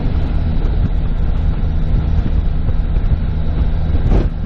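Steady engine and road rumble of a car, heard from inside the cabin while driving, with a brief louder swish near the end.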